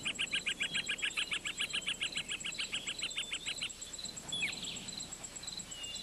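Woodland birdsong: a bird's rapid, even trill of about nine notes a second that stops about three and a half seconds in, followed by a few short falling chirps, over a thin steady high whine.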